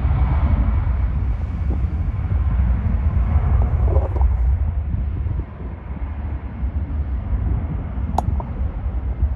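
Jet airliner engines rumbling at a distance, a steady low roar that drops noticeably about five and a half seconds in.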